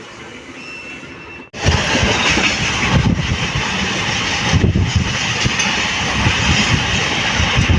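MEMU electric passenger train running along the track, wheels rumbling and clattering over the rails. A quieter stretch cuts abruptly to much louder running noise about a second and a half in.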